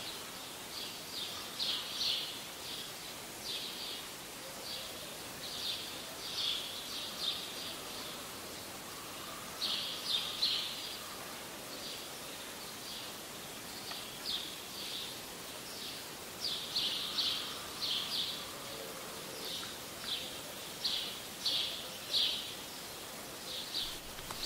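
Small birds chirping in short, repeated calls, in clusters every second or two, over a steady outdoor background hiss.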